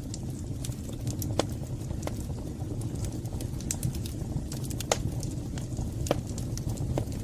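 Wood fire burning in a fireplace, with irregular sharp crackles and pops over a steady low rumble; the loudest pops come about a second and a half in and again around five seconds in.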